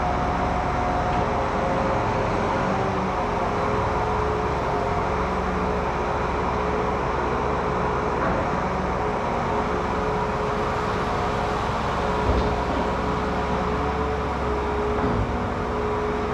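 Tractor hauling a grain trailer, its engine and drivetrain running steadily under load with a constant whine over the drone. A single thump about twelve seconds in.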